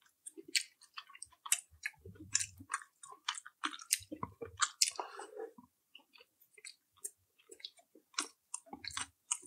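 Chewing and mouth sounds of someone eating: soft, irregular clicks and smacks with no steady rhythm.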